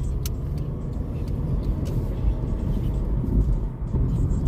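Car driving, a steady low rumble of road and engine noise with a few faint sharp clicks.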